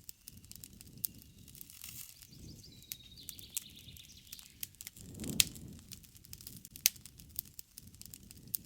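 Campfire wood crackling with frequent sharp pops, the loudest a little past halfway, over a low rush of burning. A bird sings a short trilling phrase about three seconds in.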